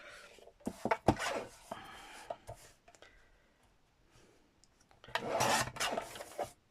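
Card being cut to size, with rasping cutting strokes and a sharp click about a second in, then a longer, louder stroke near the end.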